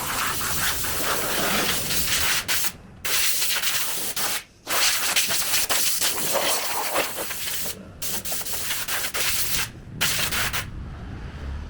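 Steady rushing, hissing noise of body-shop tool work on a car panel, broken by several sudden short silences.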